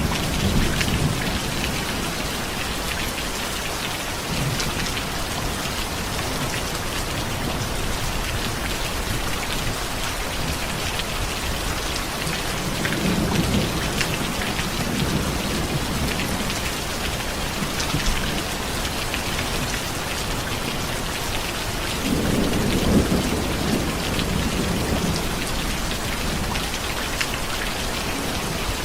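Steady heavy rain falling, with low rolls of distant thunder swelling in three times: at the start, about 13 seconds in, and about 22 seconds in.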